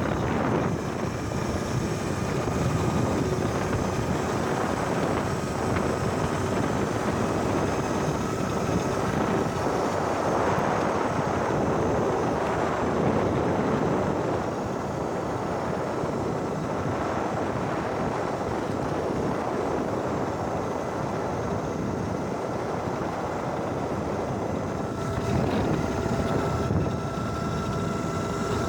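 Wind rushing over the microphone while riding, steady throughout, with a faint steady whine underneath.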